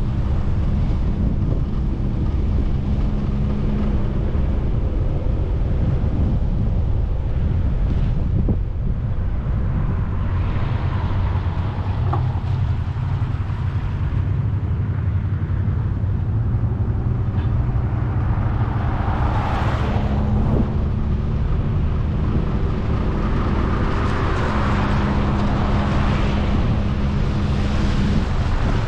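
A vehicle driving: steady low road and engine rumble with a humming engine tone that shifts in pitch, and a few swells of hissing noise along the way.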